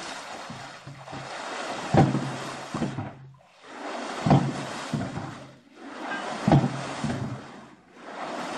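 Hydraulic ram pump cycling: water rushes out through the waste valve, then the valve slams shut with a sharp knock, the water-hammer stroke that drives water up the delivery pipe. The knock repeats about every two seconds, three times.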